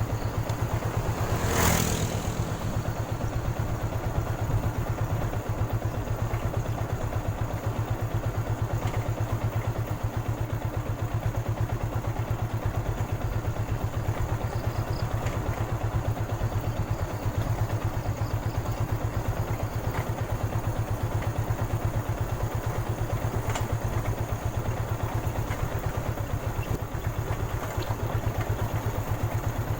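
Motorcycle engine idling steadily, with one brief sharp noise about two seconds in.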